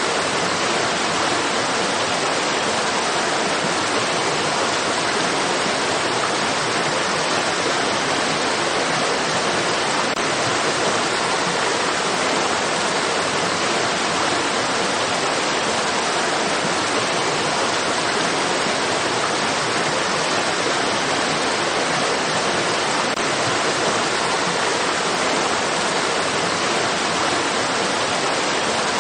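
Flowing stream water making a steady, even rush with no distinct splashes or changes.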